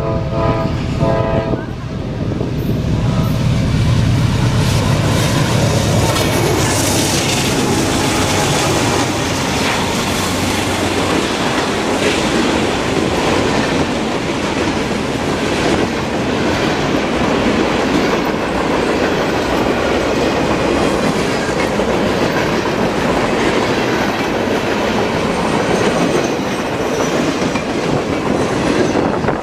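Freight train passing close by: the horn ends about a second in, the diesel locomotives under power rumble past through roughly the first ten seconds, then the cars roll by with steady wheel-on-rail noise and clickety-clack.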